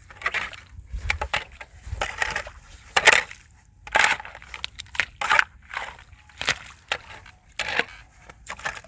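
Snow crunching in a series of separate strokes, about one a second, as it is worked or trodden on.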